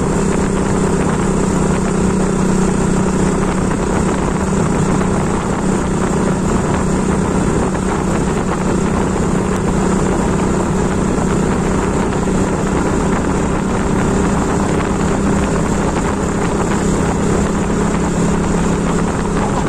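Motorcycle engine running at a steady cruise with an even, unchanging hum, mixed with wind and road noise.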